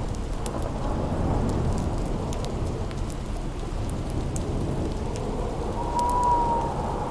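Storm ambience: steady rain over a low rolling thunder rumble, with sparse sharp crackles of a wood fire. Near the end, a thin howling wind whistle rises in and sinks slightly.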